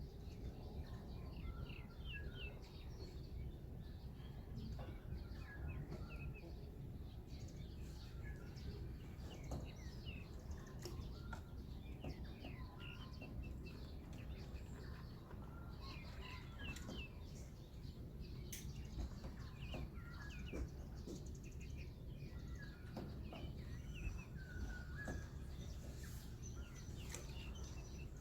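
Small birds chirping and singing, many short calls overlapping throughout, over a steady low rumble.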